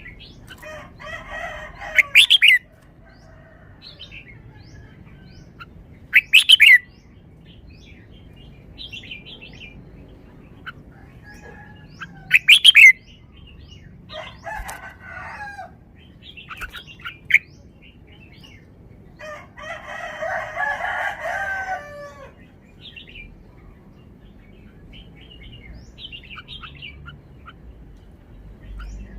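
Red-whiskered bulbul singing in short, warbling phrases separated by pauses, with three very loud, sharp notes spaced several seconds apart and faint chirps in between.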